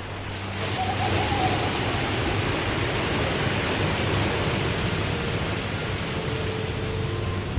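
Waterfall rushing steadily, a continuous dense wash of falling water that swells a little about half a second in.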